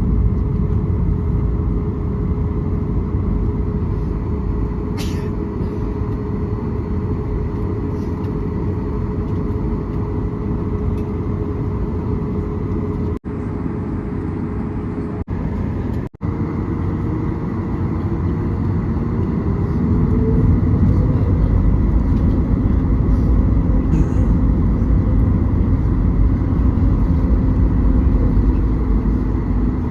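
Steady low rumble of aircraft engines with a held tone. About twenty seconds in, the tone rises and the rumble grows louder, as engines do when they spool up.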